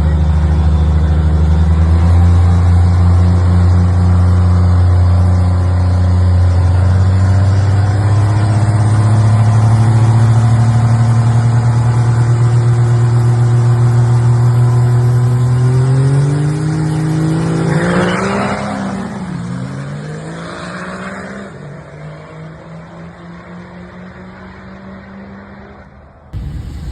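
Diesel truck engine running loud at high revs, its pitch creeping slowly upward; about two-thirds of the way in the pitch swoops sharply with a burst of noise, then the engine runs quieter until the sound cuts off near the end.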